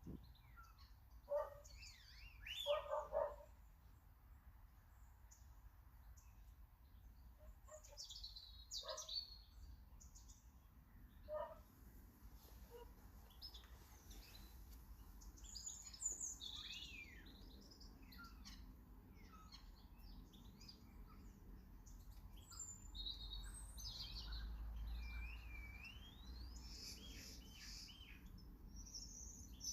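Garden birds chirping and twittering faintly: many short high chirps, with a longer whistled phrase that dips and rises later on. A few louder, lower-pitched short calls come in the first three seconds and again about eleven seconds in.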